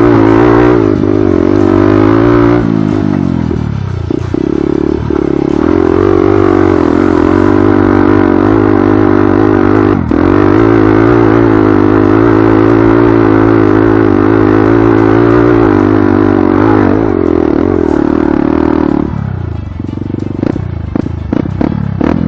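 Yamaha R15 150cc single-cylinder four-stroke engine on a motocross-converted bike, ridden hard with the revs held high and steady, with a brief dip about three seconds in. Near the end it eases off and a series of rattling knocks cuts through.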